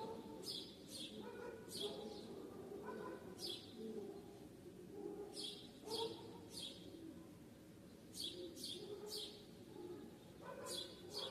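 Small birds chirping: short, quick chirps that drop in pitch, coming in twos and threes every second or two, over a faint low background murmur.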